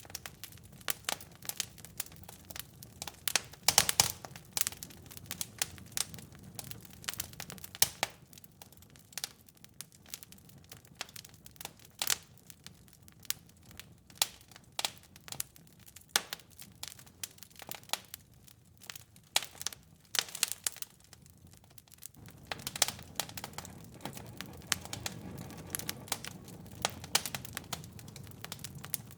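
Wood fire crackling in a fireplace: irregular sharp pops and snaps over a soft low rumble of the flames. A flurry of louder pops comes about four seconds in and again around twenty seconds, and the low rumble fades for a while before swelling back near the end.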